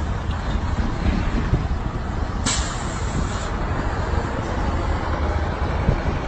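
Steady engine and road rumble of a moving vehicle. About two and a half seconds in, a sudden hiss lasts about a second.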